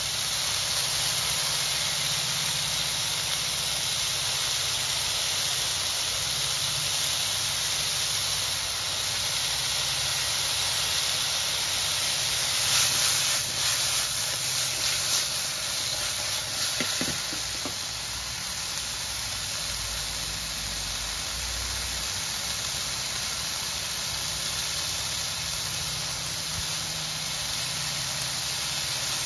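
Opo squash pieces frying in a wok over an outdoor gas burner, a steady sizzling hiss. About halfway through, the wok is shaken to toss the squash, adding a few seconds of rattling and scraping.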